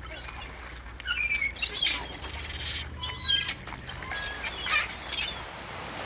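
Birds calling: a series of short chirps and whistles, some sliding in pitch, coming in several bursts spread over a few seconds.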